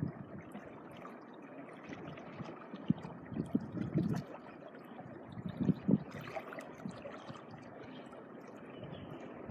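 Small waves washing up a beach and draining back, a steady wash with a few louder surges.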